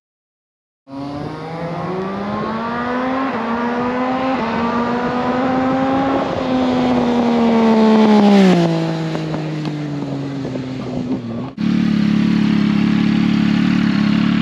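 Yamaha MT-09's inline three-cylinder engine through a Leo Vince aftermarket exhaust, pulling with its pitch slowly climbing and growing louder. About eight seconds in it is at its loudest, then the pitch and level drop as it goes past. A sudden cut near the end gives way to the engine running at a steady, even speed.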